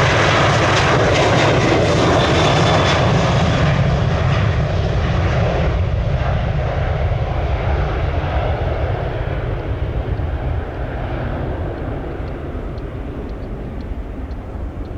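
Jet airliner passing close, its engines loud at first with a whine falling in pitch, then the rushing engine noise fading steadily as it moves away.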